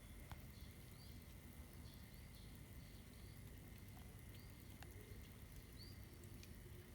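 Near silence: a low background hiss and hum, with faint short high chirps every second or so and a few soft clicks.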